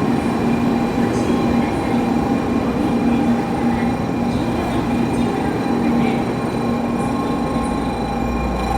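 Shinkansen train at the platform, a steady rumble overlaid with a steady high electric whine in several tones.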